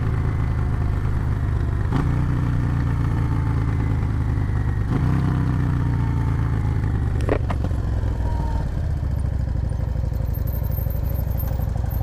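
Cruiser motorcycle engine running under way, with wind noise on the helmet microphone. The engine note changes about 2 and 5 seconds in, there is a sharp click a little past the middle, and the engine drops to a lower, slower note near the end as the bike eases off.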